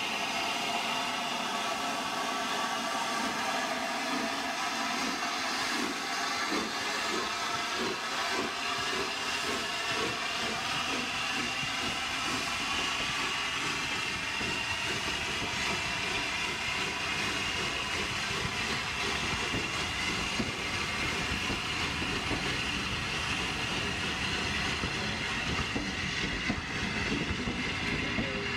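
Train running along the track: a steady rail noise with a high whine that rises slowly in pitch, and a low rumble that builds through the second half.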